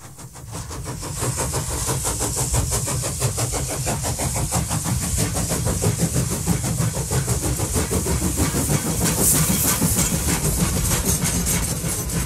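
A train running, with a heavy low rumble and a rapid, even clatter, fading in over the first second.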